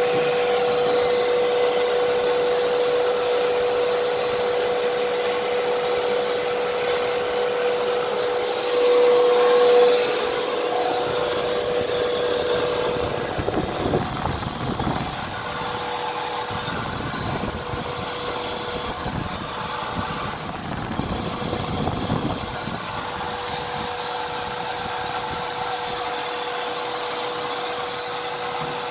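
Fantom Fury vacuum cleaner running steadily, its motor giving a constant high whine. In the middle stretch it grows a little quieter and irregular rattling and scraping come through as it works over the floor.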